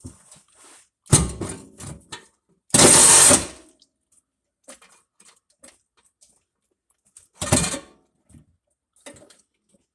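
A power saw cutting the old exhaust pipe of a Honda Civic, run in three short bursts of under a second each, with scattered light metal clicks and knocks between them.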